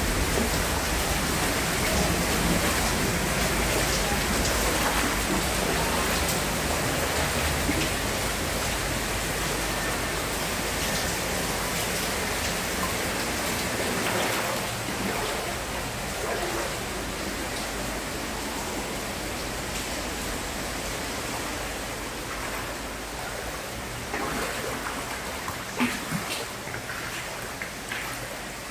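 Steady hiss of heavy rain, easing slightly over time, with a few sharp clicks near the end.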